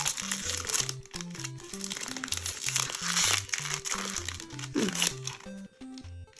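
Foil booster-pack wrapper crinkling as it is handled and opened, in bursts that are loudest in the first second and again about three seconds in. Background music with a steady repeating bass line plays underneath.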